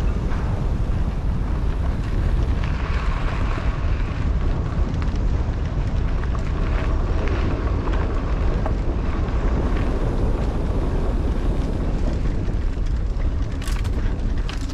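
Wind buffeting a helmet-mounted camera's microphone while a 29er mountain bike rolls along dirt singletrack, with the tyres' rolling noise under it. A few sharp clicks or rattles from the bike come near the end.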